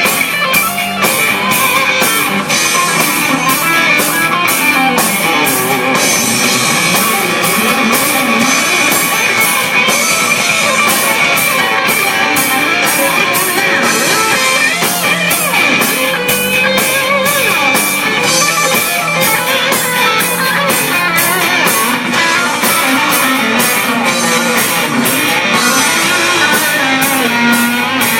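Rock band playing loudly: electric guitars over a drum kit keeping a steady beat.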